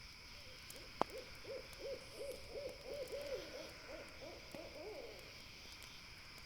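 An owl hooting a quick series of about a dozen hoots, some three a second, over a night-forest ambience with a steady high hiss. A single sharp crackle-like pop, the loudest sound, comes just before the hoots begin.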